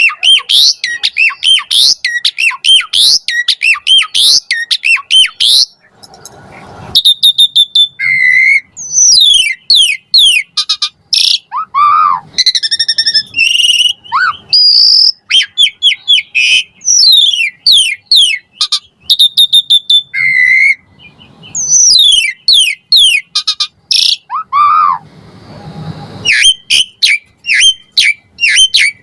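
Asian pied starling (jalak suren) singing a long, varied song of rapid chirps, whistles and falling notes, with brief pauses about six seconds in and again near twenty-five seconds.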